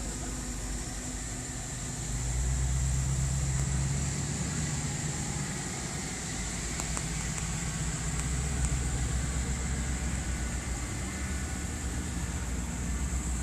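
Classic car engines running low as cars cruise by, the rumble swelling about two seconds in and again near the end, over a steady high hiss.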